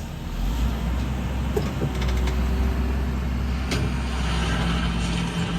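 Low, steady vehicle engine rumble that swells up just after the start and holds, with a few light clicks over it.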